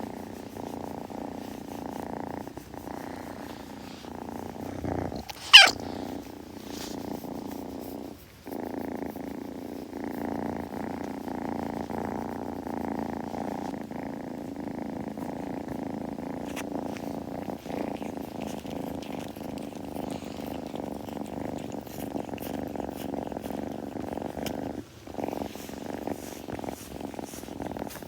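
A kitten purring steadily close to the microphone, the purr breaking off briefly twice. A short, sharp sound about five and a half seconds in is the loudest moment.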